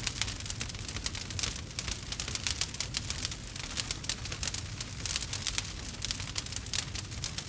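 Campfire crackling: dense, irregular snaps and pops of burning wood over a low rumble.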